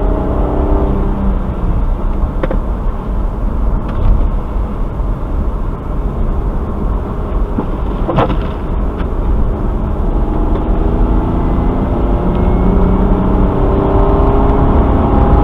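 Car engine and road noise while driving, with the engine note climbing as the car accelerates in the last few seconds. A sharp click comes about eight seconds in.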